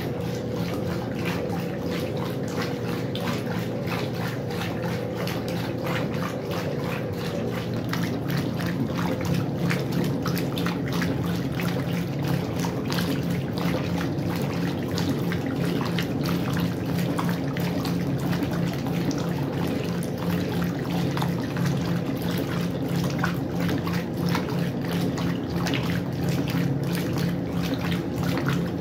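Westinghouse washing machine running with water splashing and pouring in the tub over a steady low hum. A faint steady tone above the hum stops about seven seconds in.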